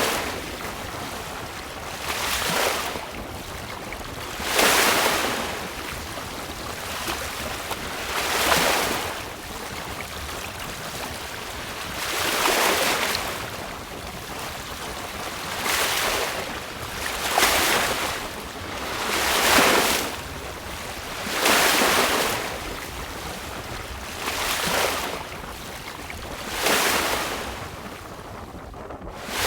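Choppy sea water rushing and splashing against a sailing yacht's hull, about ten surges, each a second or two long and two to four seconds apart. Steady wind runs in between.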